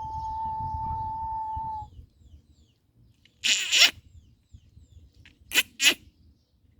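Birds calling: faint high chirps, a loud harsh squawk about three and a half seconds in, and two short rasping calls near the end. A steady whistle-like tone holds on one pitch and stops about two seconds in.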